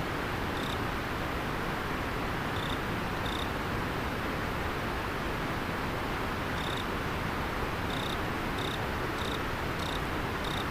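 River water flowing steadily with an insect chirping on and off above it: short, high chirps, a few early on and coming more often in the second half.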